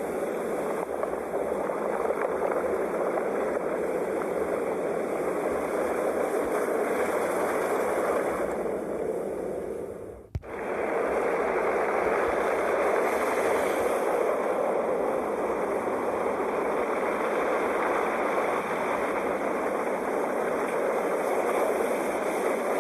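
Sea waves washing in a steady, continuous rush of surf. About ten seconds in, the sound fades almost to nothing, then cuts straight back in with a click, like a loop join in the recording.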